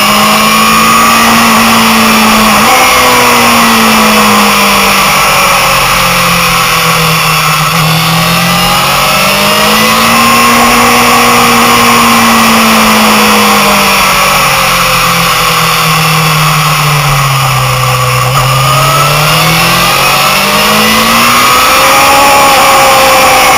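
Motorcycle engine heard from on board at track speed, its note falling and rising several times as the rider slows for corners and accelerates out of them.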